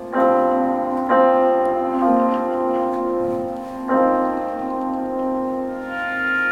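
Keyboard playing a slow intro of held chords: new chords come about a second apart at first, then one chord rings on from about four seconds in.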